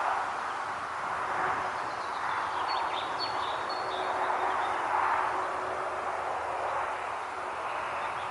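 Wind rustling through foliage, swelling and easing in slow gusts, with a few faint high chirps about three seconds in.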